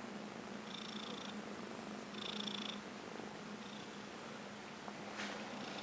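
A Russian Blue kitten purring steadily and close up. Two short, faint high tones sound about one and two and a half seconds in, and a brief click comes about five seconds in.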